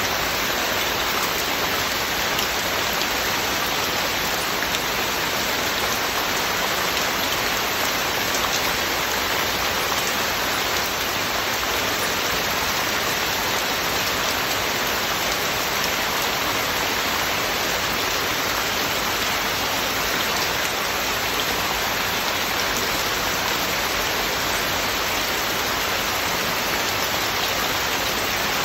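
Heavy, steady rain falling, an even hiss without breaks or thunder.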